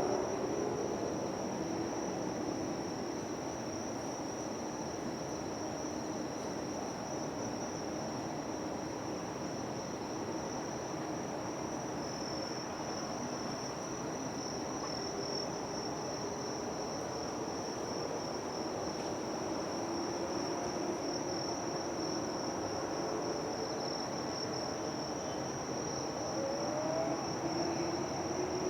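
A steady, high-pitched drone of insects, crickets or cicadas, unbroken throughout, over a low background hum of the city and traffic.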